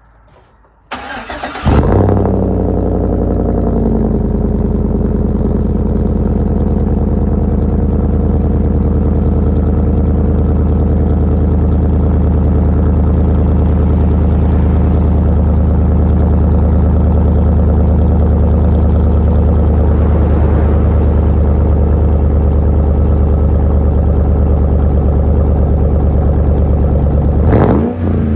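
2012 Chevrolet Silverado's 5.3-litre V8 with a muffler delete, exhaust unmuffled, starting: after a brief crank it catches with a flare about two seconds in. It then settles into a long, steady, loud idle, with one quick rev up and back down near the end.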